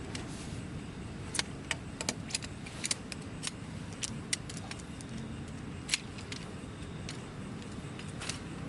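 Strong wind rumbling on the microphone, with a dozen or so sharp, irregular metallic clicks and clinks of camping gear being handled.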